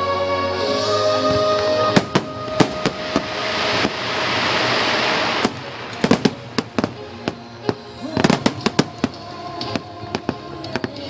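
Aerial fireworks bursting over music, with sharp bangs in quick clusters about two seconds in, around six seconds and around eight seconds. A steady rushing hiss fills a stretch around four to five seconds in.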